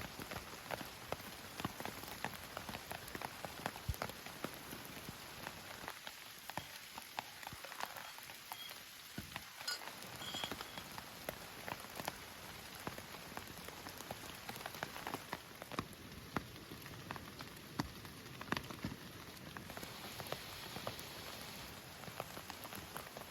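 Heavy rain falling on a Bandock Solo Dome tent: a steady hiss with many sharp, irregular drop hits close to the microphone.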